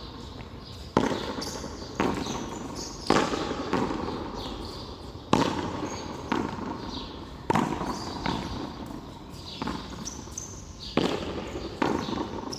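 Frontón a mano rally: the ball slapped by hand and smacking off the wall and floor, a sharp crack about once a second, each with a short echo.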